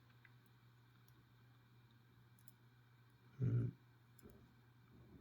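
Faint, sparse clicks of small metal lock parts being handled: the pins and plug of a disassembled pin-tumbler lock. About three and a half seconds in there is one short, louder dull thump.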